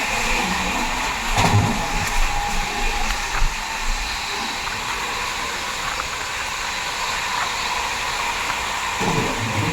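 Steady rushing noise of a passenger express train running at speed, with a few knocks in the first few seconds.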